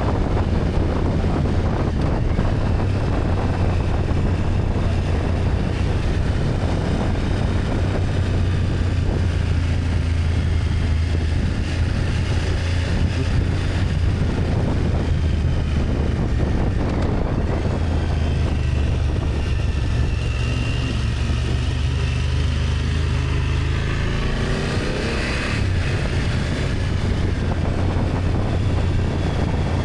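BMW F800GS parallel-twin engine running steadily as the motorcycle rides downhill, heard from on the bike. The engine note shifts about twenty-five seconds in as the revs change.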